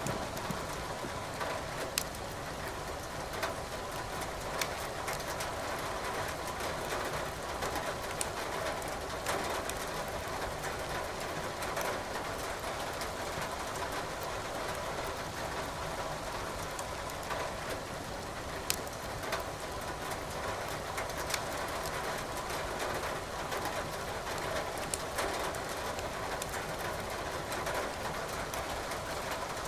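Steady hiss of rain with burning firewood crackling in a fireplace: sharp pops every few seconds.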